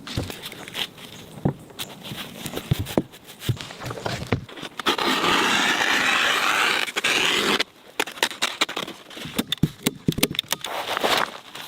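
Hand-tool work on a cabin roof: irregular knocks and taps, with a loud steady scraping noise for about two and a half seconds midway that cuts off suddenly.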